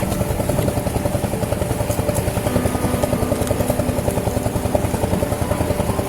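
Small boat engine running steadily, with a rapid, even chugging beat.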